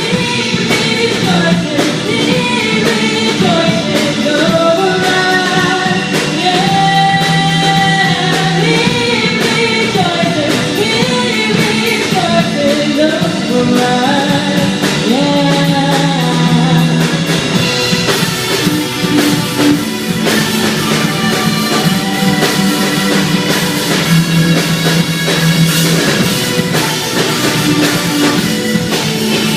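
Rock-style worship band music: drum kit, electric guitars and bass, with a wavering lead melody line over the top. The cymbals grow brighter a little past halfway.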